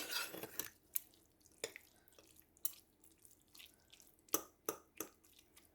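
Two forks shredding slow-cooked chicken breast in a crock-pot of salsa: a few faint, scattered clicks and scrapes of the forks against the meat and pot.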